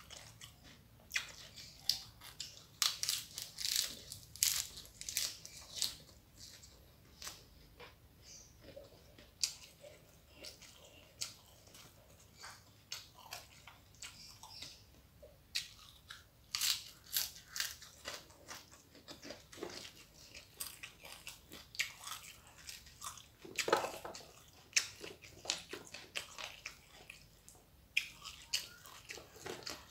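Close-up chewing and biting of a hand-eaten meal of rice with crisp fried dried salted fish and raw young jengkol, with frequent sharp crunches coming in clusters.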